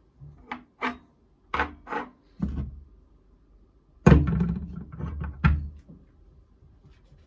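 A series of knocks and clunks from hard objects being handled and set down, about ten in all, with the loudest heavy clunk about four seconds in.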